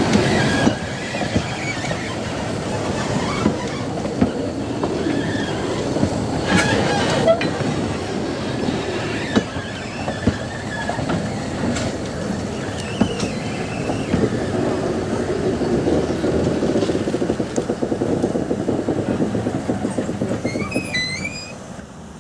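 Narrow-gauge steam train running, its wheels clattering over the rail joints with a steady rumble and intermittent high squeals of flanges on curves. The sound drops off sharply near the end.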